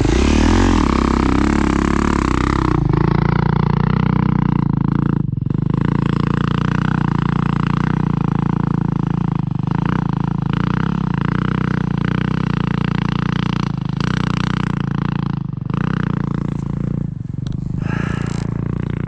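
Dirt bike engine running close by. It revs with rising and falling pitch for the first few seconds, then settles into a steady note with a few brief dips.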